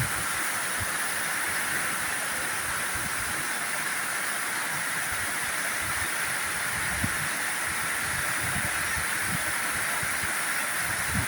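Heavy rain falling: a steady, unbroken hiss of downpour.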